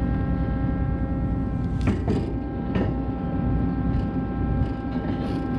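A heavy diesel engine runs steadily with a whine over it. Three sharp metal clanks come about two to three seconds in as the header trailer's axle tube and parts are fitted.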